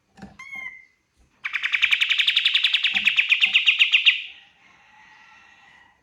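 A kapas tembak (pied triller) singing. A few short chirps come first, then a loud, rapid trill of evenly repeated notes, about ten a second, lasting about two and a half seconds before it fades.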